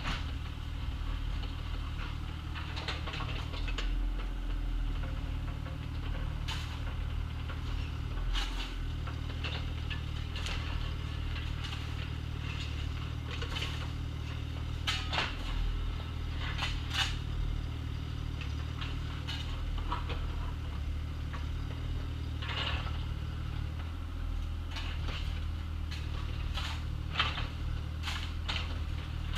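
Bobcat compact excavator's diesel engine running steadily while digging. Sharp metal clanks from the bucket and linkage come irregularly, about one every second or two, with brief dips in the engine note about four and eight seconds in.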